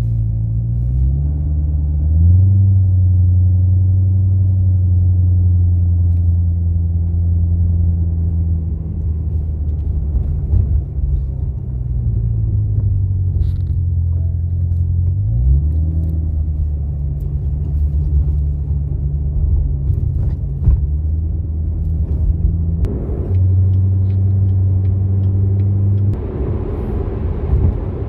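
Chevrolet Corvette's engine running on the road, its pitch climbing as it accelerates about two seconds in, sinking as it eases off around twelve to fifteen seconds, then climbing again. Near the end a wider rushing noise joins the engine.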